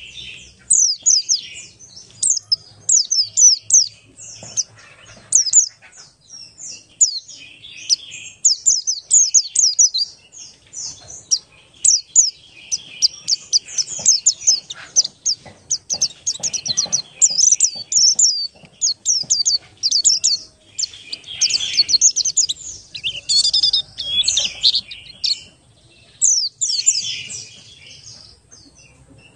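White-eye (pleci buxtoni) singing in long, fast runs of high chirps and trills, barely pausing.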